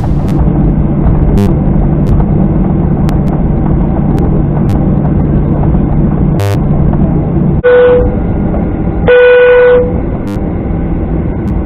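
Steady hum of an airliner cabin on the ground before takeoff, with two flat electronic beeps about eight and nine seconds in, the second one longer.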